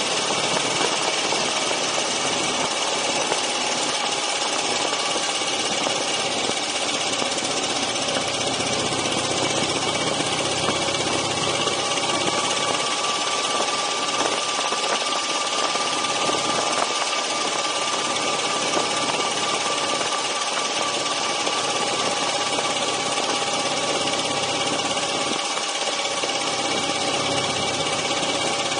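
Dnepr MT-9 motorcycle's flat-twin engine running steadily at cruising speed, with wind and road noise rushing past. The engine pitch rises slightly about halfway through, then holds.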